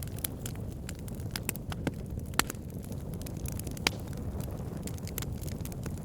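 Wood fire burning, logs crackling with irregular sharp pops over a low steady rumble; two pops stand out louder, about two and a half and four seconds in.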